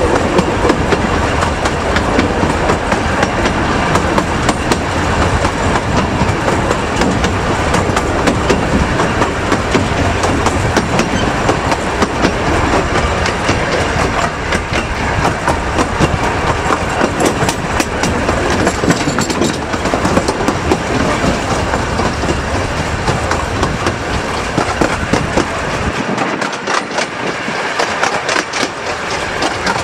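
Miniature railway carriage running along the track, heard from on board: steady wheel rumble with rapid clicking over the rail joints and carriage rattle. Near the end the low rumble drops away as the train slows alongside a platform.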